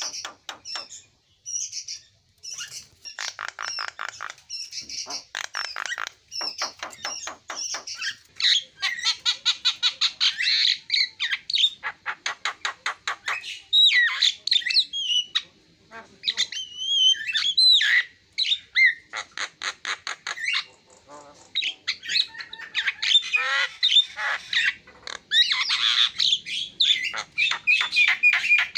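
Javan myna (jalak kebo) singing a long, varied song: harsh squawks, fast rattling runs of repeated notes at about eight a second, and gliding whistles, with hardly a pause.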